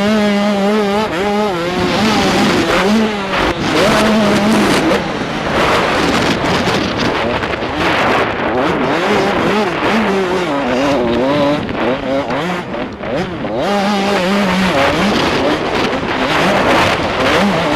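An 85cc two-stroke motocross bike's engine revving hard. Its pitch rises and falls again and again as it accelerates, shifts and backs off over the track.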